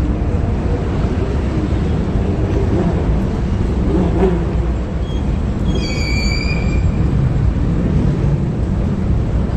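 Car engines and exhausts rumbling steadily, with a brief high-pitched squeal about six seconds in.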